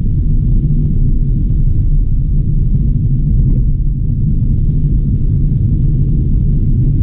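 A moving car's steady low rumble, loud and even throughout, with little higher-pitched sound.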